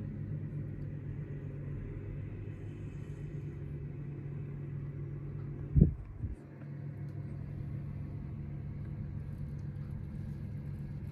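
Steady low engine rumble of a big truck on the road. About halfway through there is a single sharp thump, after which the sound briefly dips before the rumble returns.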